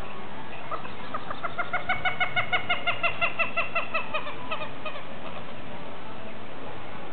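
A bird calling a fast run of about twenty short notes, four or five a second, that swells and then fades away over about four seconds.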